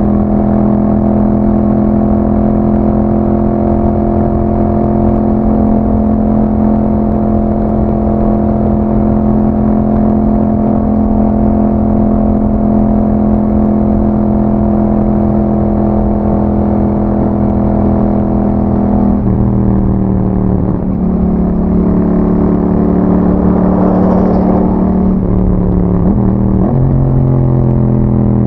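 Yamaha MT-07's 689 cc parallel-twin engine running through an Akrapovic exhaust with a dB killer, holding a steady engine speed while riding. About two-thirds of the way through the engine note drops and rises again a couple of times, as the revs change.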